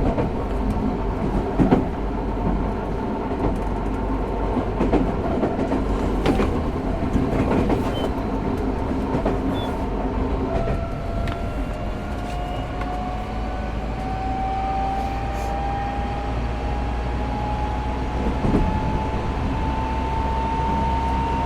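Running sound of a Tokyo Metro 05 series train with Mitsubishi IGBT inverter drive: a steady rumble with wheels knocking over rail joints, then from about halfway a motor whine that rises slowly in pitch as the train picks up speed.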